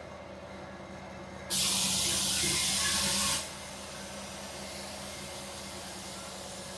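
A compressed-air gun hissing in one loud burst of about two seconds, starting about a second and a half in. A steady fainter hiss and a low hum run underneath.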